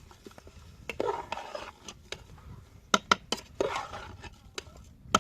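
A metal spoon stirring and scraping in a cooking pot, with a few sharp clinks against the pot about three seconds in.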